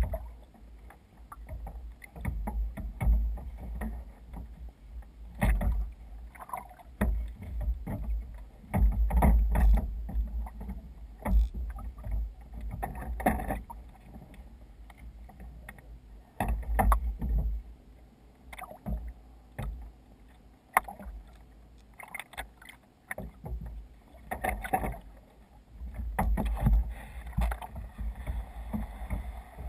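Water splashing and slapping against a sea kayak's hull in irregular surges as it moves through waves, with a low rumble underneath.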